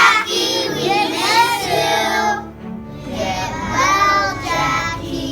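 Children singing a song in two phrases, with a short break about two and a half seconds in.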